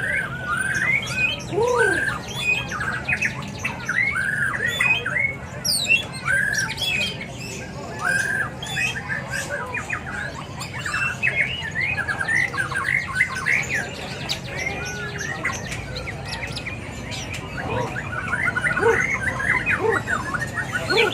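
Many caged songbirds calling at once: a dense, continuous chorus of overlapping chirps, whistles and squawks.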